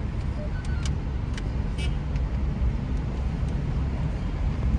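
Steady low rumble of cars and road traffic, with a few faint clicks.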